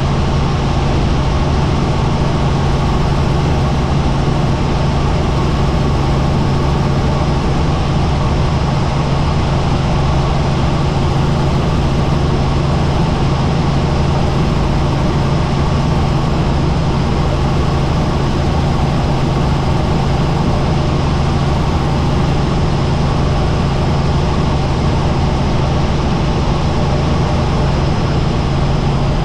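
Helicopter engine and rotors running: a loud, steady drone with a strong low hum.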